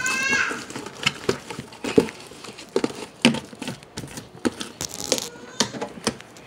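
A big batch of homemade slime being worked by hand in a container: irregular wet clicks, pops and crackles as it is squeezed and stirred.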